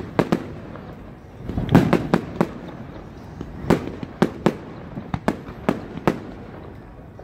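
Aerial fireworks bursting, about a dozen sharp bangs at irregular intervals, the loudest a cluster about two seconds in.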